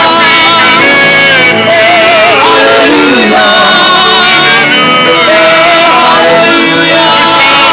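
Gospel praise and worship music: a choir and singers holding a sustained "hallelujah" line over live band accompaniment.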